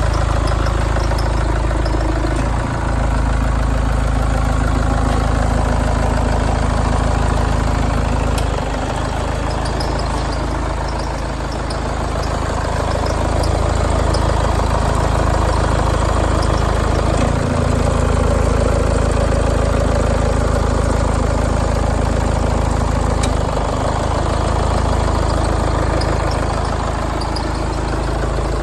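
Citroën C-Crosser's HDi diesel engine idling steadily.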